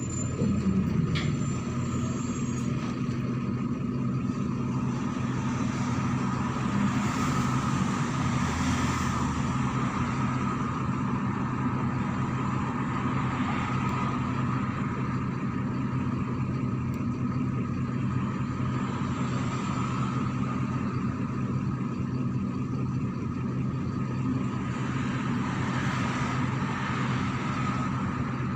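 MAZ-103 city bus driving, its diesel engine running steadily with road noise and a faint steady whine above it.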